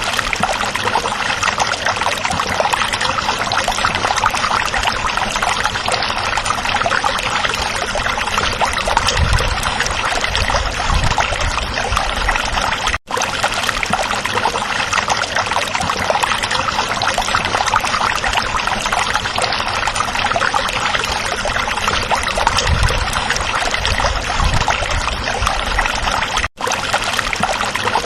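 A stream running over rocks: steady rushing and trickling water. The sound cuts out for a split second twice, about halfway through and near the end.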